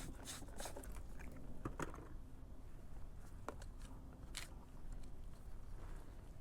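Irregular small clicks and crunchy scraping from handling and cleaning a Vaillant boiler's circulation pump and its impeller by hand, over a steady low rumble. The clicks are bunched in the first two seconds, with two more single clicks later.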